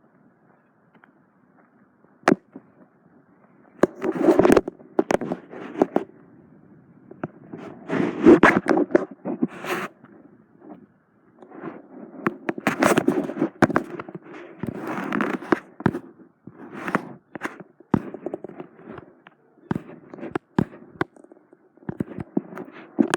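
Irregular crackling, scraping rustles broken by sharp clicks, coming in loud bursts after a quiet first few seconds.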